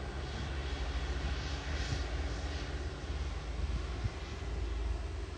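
Jet airliner's engines running as a wide-body jet flies past: a steady deep rumble under a rushing hiss.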